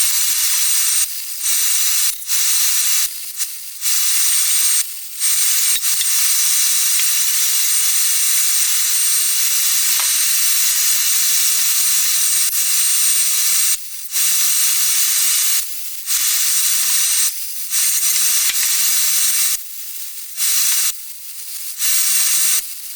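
Wire-feed (MIG) welder arcing in a string of welds: a steady sizzling hiss that stops and starts about ten times. The longest run lasts roughly nine seconds, from about five seconds in. A faint steady hum carries on between the welds.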